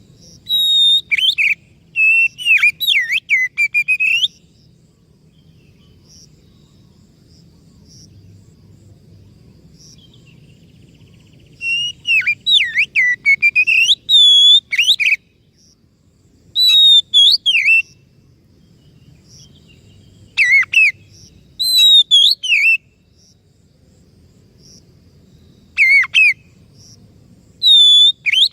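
Oriental magpie-robin in vigorous song: loud bursts of varied, sliding whistled phrases, the longest lasting about three seconds, separated by pauses of a few seconds.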